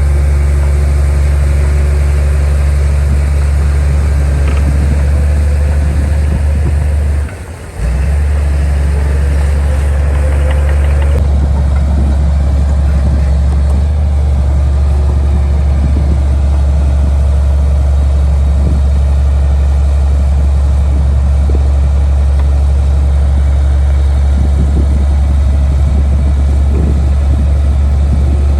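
Komatsu D58P bulldozer's diesel engine running steadily at a low, even pitch, with a brief dip in level about seven seconds in.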